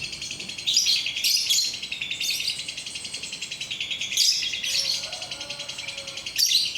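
Lovebird's ngekek: a long, unbroken, rapid high chattering trill, which the owner times at about six minutes. Sharper, louder bird calls cut in several times over it.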